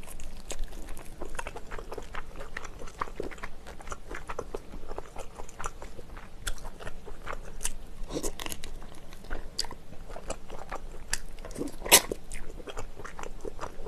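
Close-miked mukbang chewing: a person biting and chewing mouthfuls of food, a steady run of small clicks and smacks, with one sharper bite about twelve seconds in.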